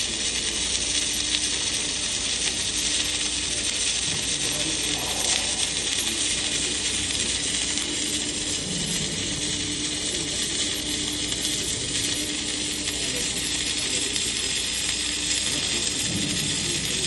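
Welding arc on a KEDR AlphaTRAC-1 welding tractor, crackling and hissing steadily at an even level, with a steady hum underneath.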